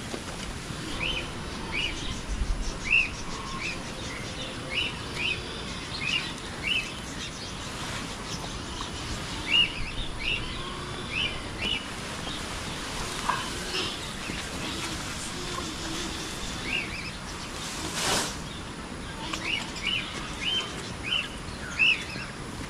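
A small bird chirping over and over in short, high, upswept calls, often one or two a second with pauses between runs, over a steady background hiss. A brief rush of noise comes about eighteen seconds in.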